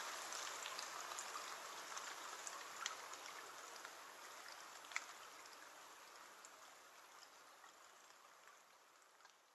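Rain falling on a window: a steady hiss with scattered sharper drop taps, about two standing out near three and five seconds in. It fades out gradually throughout.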